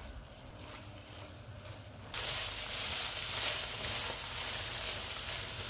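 Minced beef frying in oil in a non-stick pan on a high flame, stirred with a slotted spatula: a fainter sizzle with scraping at first, then a steady, much louder sizzle that starts suddenly about two seconds in. This is the bhuna stage, frying the keema until the oil separates.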